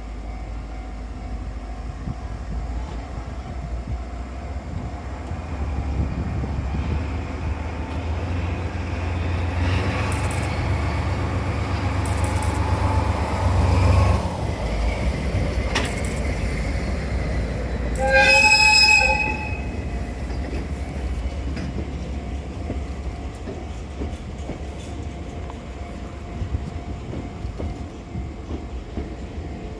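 A locomotive-hauled train of new Odakyu 70000-series cars rolls past. Its low rumble builds to a peak in the middle, then eases away. A single horn blast of about a second and a half sounds after the peak and is the loudest moment.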